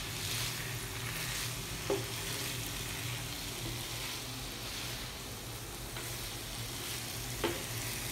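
Spiced chicken pieces sizzling on a flat tawa while a wooden spatula stirs and scrapes them around the pan. Two short sharp knocks come through, about two seconds in and near the end.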